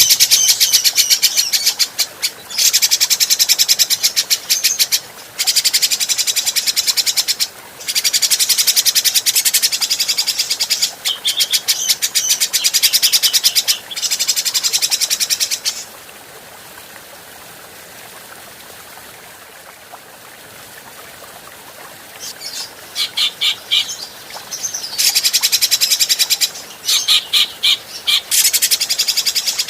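Cucak jenggot (grey-cheeked bulbul) singing in long runs of rapid repeated high notes, each run several seconds long. The song stops for about six seconds midway, leaving faint hiss, then resumes in shorter phrases.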